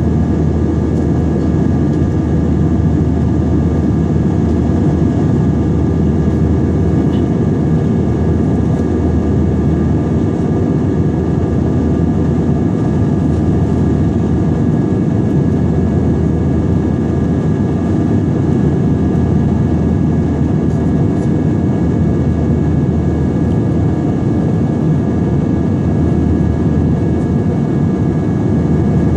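Airbus A320 jet engines and airflow heard from inside the passenger cabin during the climb after take-off: a steady low roar with a few faint steady whining tones above it.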